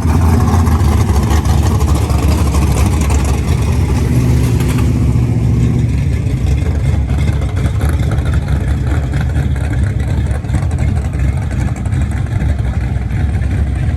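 Loud drag-racing engine noise: a car accelerating hard, loudest for the first five or six seconds, then easing to a lower rumble.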